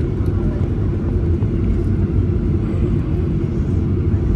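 Airliner cabin noise just after landing: a steady low rumble of engines and airflow with the wheels on the runway, heard from a passenger seat.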